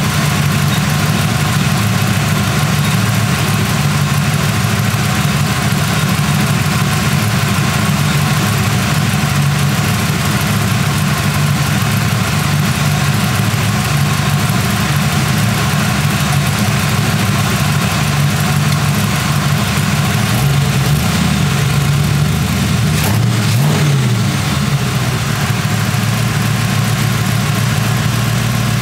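1940 Ford Tudor's engine idling steadily on its Holley carburetor during carburetor adjustment. The idle speed wavers briefly about three quarters of the way through.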